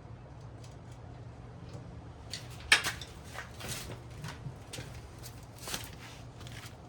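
A few sharp, irregular clicks and knocks of hand tools at the motorcycle's rear wheel bolts as they are tightened, the loudest about three seconds in, over a low steady hum.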